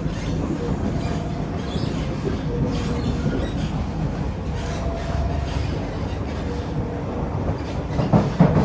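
Inside a C151A metro train running at speed between stations: a steady low rumble of wheels on rail with faint, brief tones coming and going. A couple of knocks come near the end, like the wheels passing over a rail joint.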